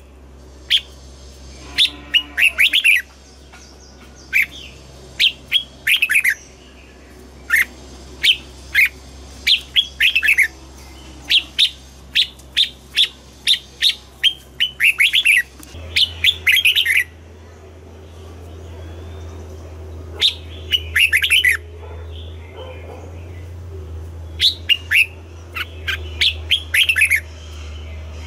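Red-whiskered bulbul singing: short, loud phrases of rapid chirping notes, repeated again and again, with a pause of a few seconds past the middle.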